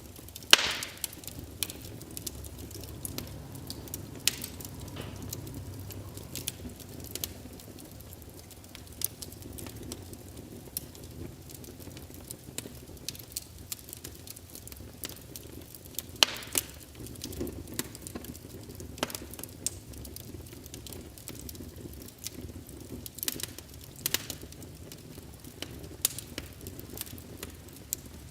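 Wood fire crackling in a fireplace: a low steady rush of flame with irregular sharp pops and snaps. The loudest pops come about half a second in and again around the middle.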